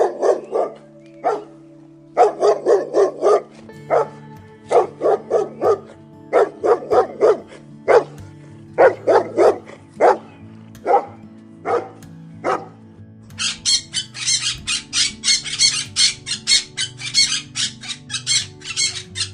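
A dog barking in quick runs of several barks, over steady background music. About two-thirds of the way through it gives way to a bird squawking rapidly and continuously.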